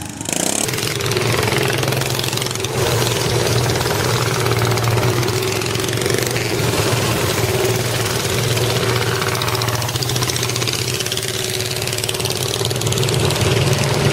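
A motor vehicle engine running fairly steadily near idle, its note rising and falling a little.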